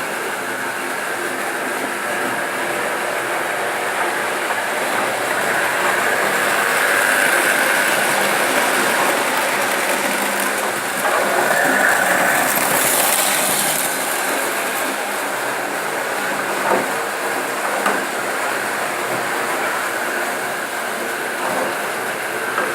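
Märklin model train running on its track: a steady small electric motor whine with the wheels rattling along the rails. There is a louder, hissier stretch in the middle and a few sharp clicks in the second half.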